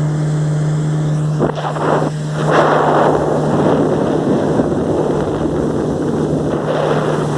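Motorboat engine running at a steady low hum, with a loud rush of water and wind that builds up about two and a half seconds in.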